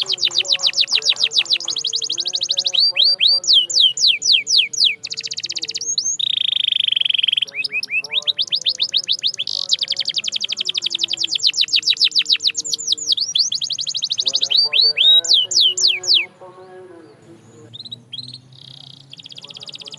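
Canary singing in fast rolling trills of rapidly repeated notes, broken by downward-sweeping whistles and one held steady note about six seconds in. The song stops about sixteen seconds in, leaving only a few faint chirps.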